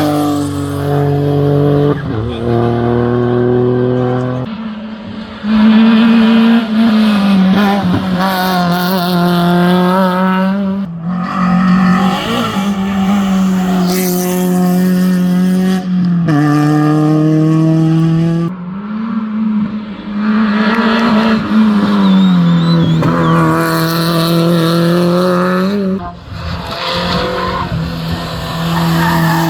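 Race car engine revving hard and changing gear: the pitch climbs, jumps down at each shift and sags on each lift-off, with a few brief lulls.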